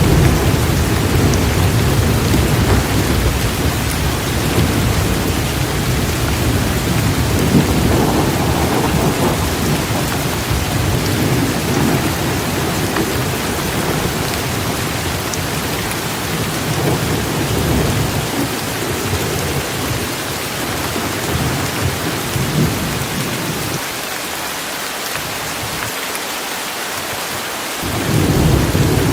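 Heavy torrential rain falling steadily, with continuous low thunder rumbling underneath. The rumble dies away about four-fifths of the way through, leaving only the rain for a few seconds, then comes back near the end.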